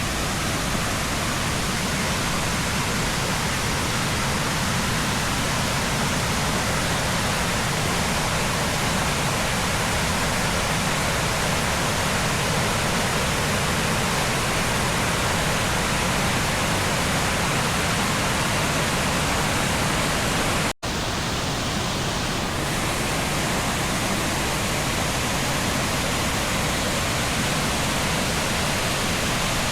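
Steady rush of a waterfall cascading down limestone tiers, a continuous even roar of falling water. It cuts out for an instant about two-thirds of the way through, then carries on unchanged.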